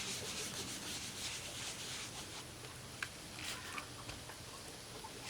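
Faint rubbing of a cloth over a leather headstall as it is cleaned, in uneven strokes.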